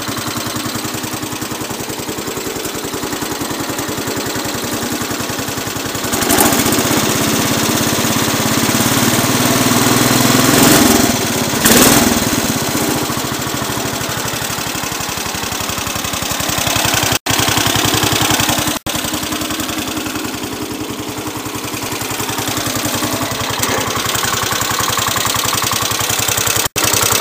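Cub Cadet 107's 10 hp Kohler K-241A single-cylinder engine running steadily about a minute after a cold start. It gets louder for several seconds about a quarter of the way in, and the sound cuts out for an instant three times in the second half.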